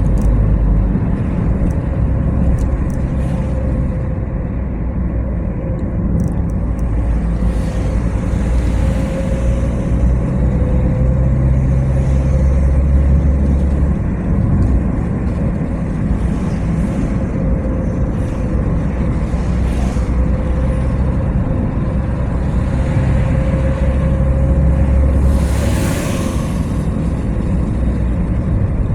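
Car driving at a steady speed: continuous engine and tyre rumble with a steady hum, and a brief rush of noise near the end.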